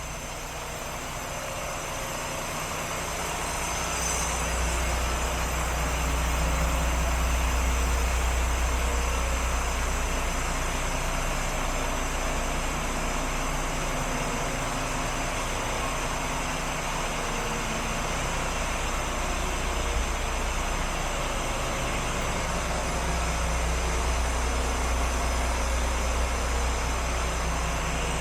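Diesel engine of a Renault Premium tractor unit, a 460 hp DXi, idling steadily. It grows a little louder over the first few seconds.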